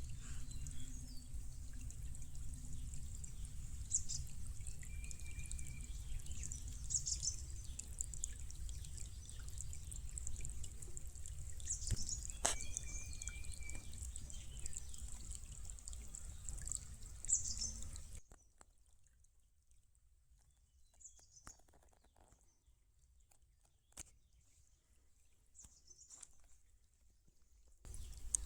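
Shallow stream water trickling over basalt rock, with birds chirping every few seconds. A low rumble drops away about two-thirds of the way through, leaving the quieter trickle and the bird calls.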